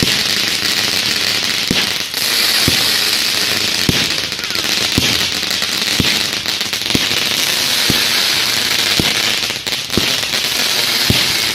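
A firework hissing and crackling continuously, with a dull thump about once a second as it fires shot after shot.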